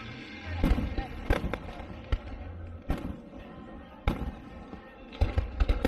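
Fireworks bursting in a string of sharp bangs, spaced out at first, then several in rapid succession near the end.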